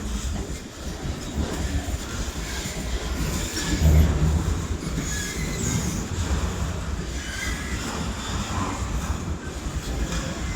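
A train rolling past with a continuous rumble of wheels on rails and short, high-pitched squeals from the wheels, loudest about four seconds in.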